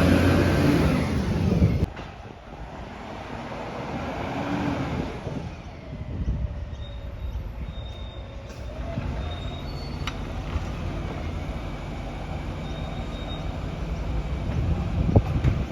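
Garbage truck running, loud at first and dropping off sharply about two seconds in, then a steady low engine note with a slow dip and rise in pitch and faint high-pitched squeals.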